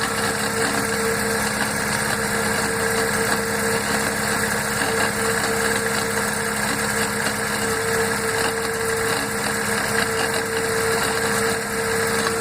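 Fiat Uno Mille Fire 1.0 running at idle with a steady whine from its gearbox. The owner likens it to bearing noise and says it fades once the gearbox warms up.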